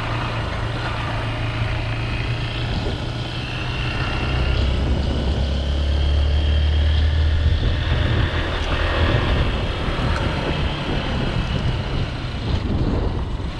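Motorcycle engine running while riding, with a steady low engine note under a rush of noise; the note grows stronger and deeper for a few seconds around the middle, then settles back.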